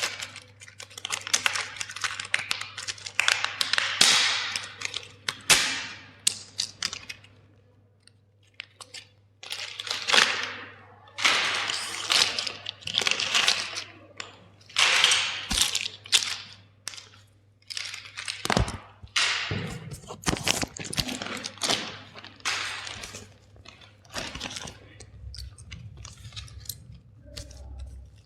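Toy vehicles being crushed: a dense run of sharp cracking and crunching as the toys break apart, with a couple of short pauses, over a steady low hum.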